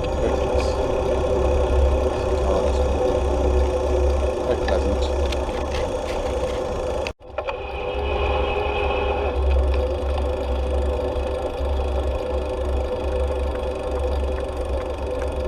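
Wind rumbling on the microphone over road noise while cycling. The sound drops out abruptly for a moment about seven seconds in, then carries on.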